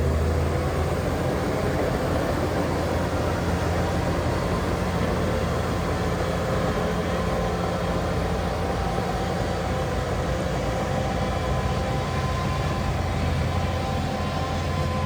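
Heavy diesel earthmoving machinery running steadily, with a constant low engine drone.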